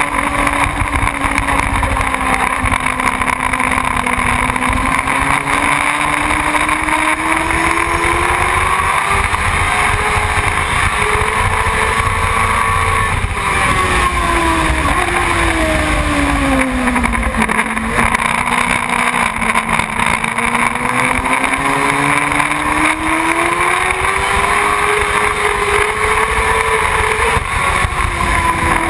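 Motorcycle engine running under way, its pitch rising and falling slowly over stretches of several seconds as the revs change, with a steady wind rumble on the microphone.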